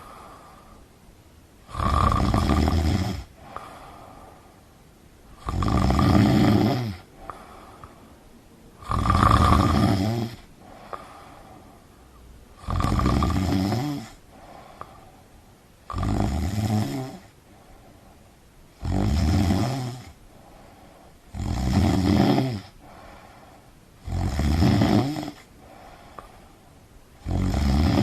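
A sleeper snoring loudly and steadily, about nine snores each lasting a second or so, spaced roughly every three seconds with quiet breaths between.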